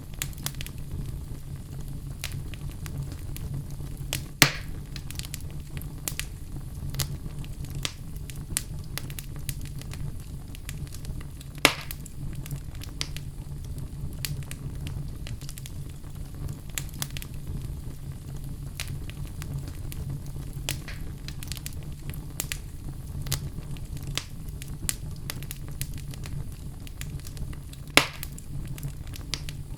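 Wood fire in a fireplace crackling steadily, with many small snaps over a low, even hum. Three much louder pops stand out, spread through the stretch.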